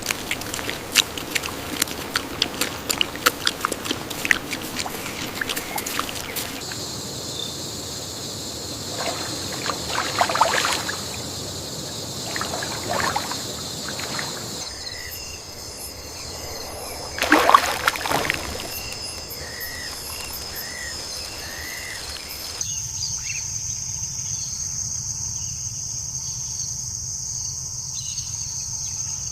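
Rainforest riverbank ambience in changing layers. It opens with water trickling and splashing as dense crackling ticks. From about seven seconds in, a steady high insect drone comes in with scattered calls and a louder sudden sound near the middle. Near the end the insect drone is stronger, over a low rumble.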